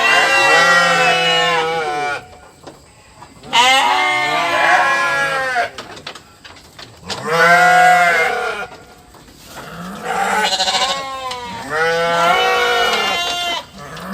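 Goats bleating: about five long, wavering bleats, one after another with short pauses between them.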